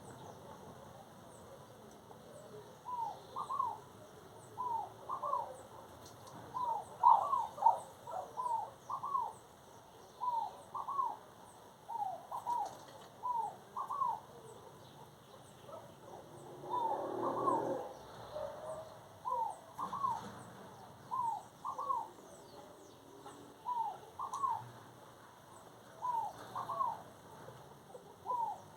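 A bird calling over and over in short two-note phrases, repeated every second or two. There is a brief noisy rustle about seventeen seconds in.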